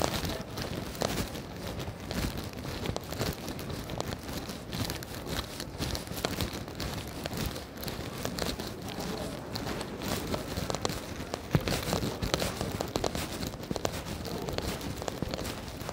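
Walking in the rain on a wet city street: rain falling and footsteps on wet, melting-snow pavement, with dense crackling rustles close to the microphone.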